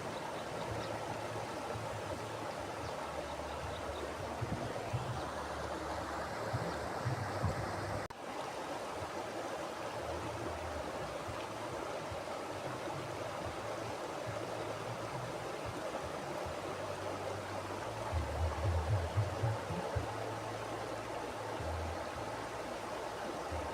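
Mountain river flowing: a steady rush of water with uneven low rumbles underneath, which swell for a couple of seconds about eighteen seconds in. The sound dips for an instant about eight seconds in.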